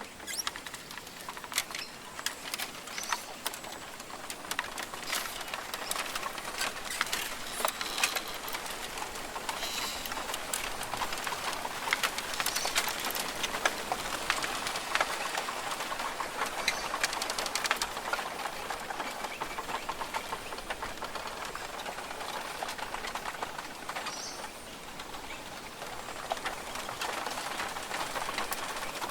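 Australian rainforest ambience: birds calling over a steady hiss, dotted with many short clicks and ticks. It grows a little louder in the middle.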